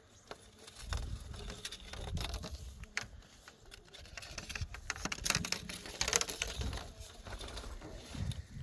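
Irregular clicking, tapping and rustling with no steady rhythm, busiest about five to six seconds in.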